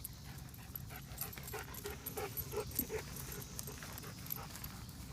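A dog panting in a run of short, quick breaths.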